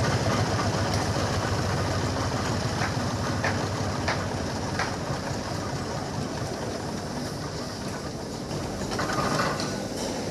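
Diesel engine idling, its low rumble slowly growing quieter, with a few sharp metallic clicks in the first half and a short rattle near the end.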